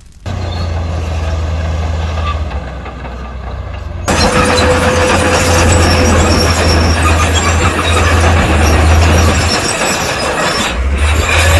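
Heavy diesel construction machinery running, a deep steady engine drone. About four seconds in it is joined by a loud continuous rumbling, grinding noise, such as rock and soil being pushed or dumped.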